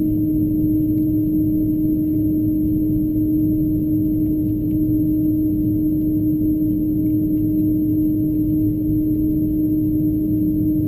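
Steady cabin noise inside an Airbus A330 on the ground: an even, loud hum with a strong low steady tone over a low rumble, unchanging throughout.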